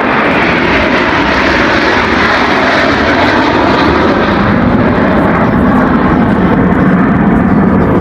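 Loud engine noise of a fixed-wing aircraft flying past. The higher part of the sound dies away after about four seconds, leaving a deeper rumble.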